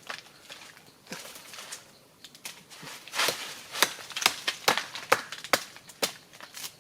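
Repeated sharp chopping strikes of a hand tool, a few scattered at first, then a steady run of about two a second over the last few seconds, with a short scraping rush of noise just before the run.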